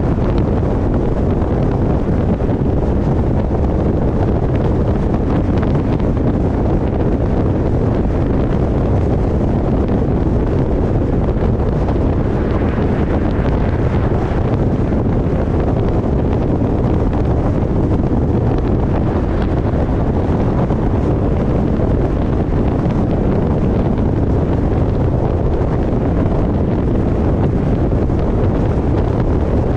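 Steady, loud wind noise buffeting the microphone of a camera mounted on the roof of a moving car, deep and unbroken.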